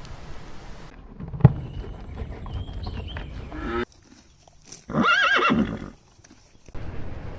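A horse whinnying once, a short call with a quavering pitch, about five seconds in. Before it come a thump and noisy shuffling that may be hooves.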